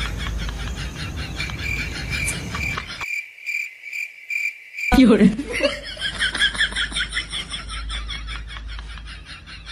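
Crickets chirping rapidly, a comedy 'awkward silence' sound effect; for a moment halfway through only a single pulsing chirp remains. About five seconds in, a short, louder low wobbling sound breaks in.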